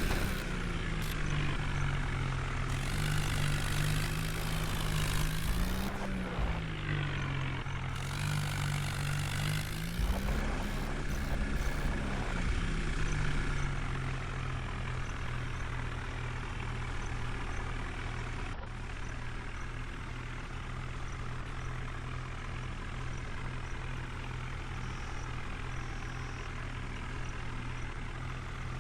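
New Holland tractor's diesel engine pulling a fully loaded trolley, its pitch rising and falling twice in the first half, then running steadily.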